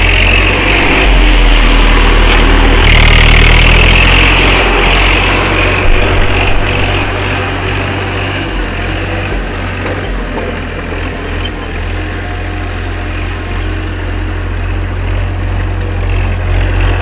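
Tractor engine running steadily, loudest for the first few seconds and then easing off somewhat.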